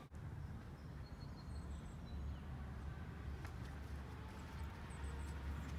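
Outdoor ambience: a steady low rumble with a few short, faint bird chirps.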